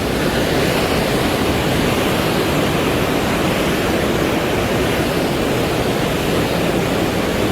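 Rushing river water: a loud, steady, even rush with no breaks.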